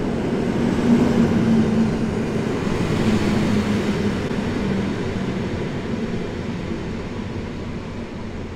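Polregio electric multiple unit running past close alongside the platform and pulling away, wheels rumbling on the rails under a wavering motor hum, fading steadily as it moves off.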